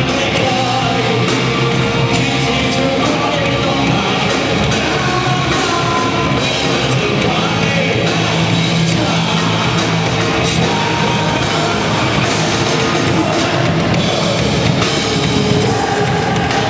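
Loud heavy rock music: a full band with drum kit playing steadily, with singing.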